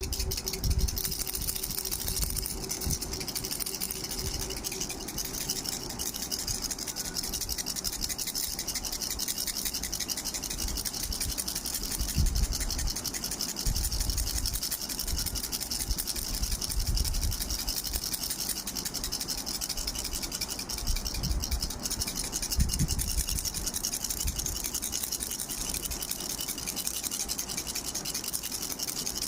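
Baby rattle shaken rapidly and continuously, a dense fast clatter of small beads, with occasional low bumps from handling.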